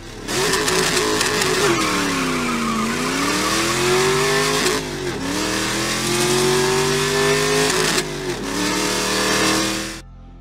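Car engine revving with tire squeal, the pitch dipping, then climbing in several long pulls with short breaks between. It cuts off suddenly near the end.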